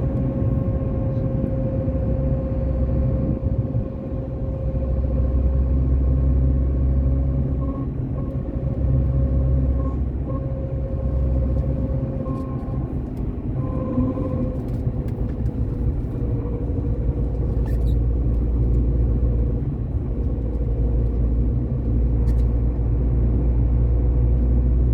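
Audi A4 B8 2.0 TDI 170 hp driving at speed: a steady low rumble with a constant humming tone over it. This is the abnormal noise that comes on when accelerating from about 90 km/h uphill and fades as speed drops, and it appeared after a clutch kit and flywheel replacement.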